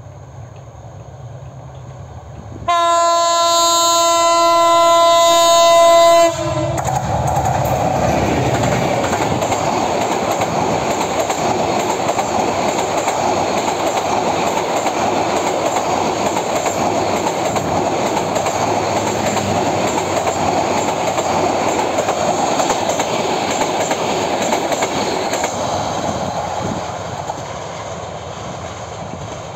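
Hyundai Rotem-built diesel-electric locomotive 3021 of a Bangladesh Railway express sounds one long horn blast of about three and a half seconds, which cuts off sharply. Before it, the train's rumble grows as it approaches. The intercity coaches then pass close at speed with a steady rumble and clatter of wheels on rail, fading near the end as the train moves away.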